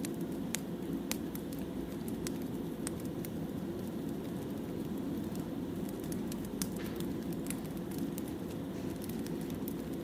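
Wood fire burning: a steady low rushing with irregular sharp crackles and pops from the burning logs.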